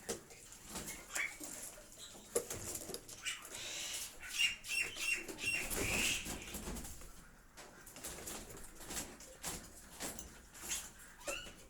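Caged Bali starlings moving and fluttering, with rustles and clicks throughout. Near the middle comes a quick run of about five short, high calls.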